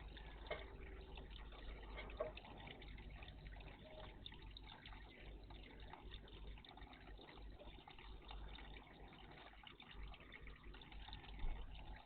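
Faint, steady water splashing and trickling at a garden bird bath, with a few brief sharper sounds about half a second in, around two seconds in and near the end.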